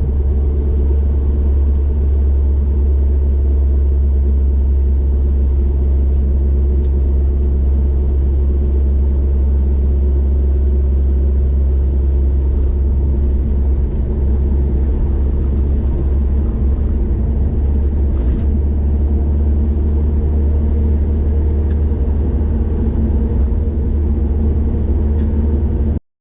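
Steady low rumble of a car driving on a highway: road and engine noise running evenly, cutting off suddenly near the end.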